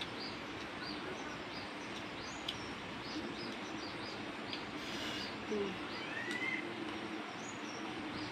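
Small birds chirping: short high chirps repeat every half second or so, with one longer rising call about six seconds in, over a steady background hiss.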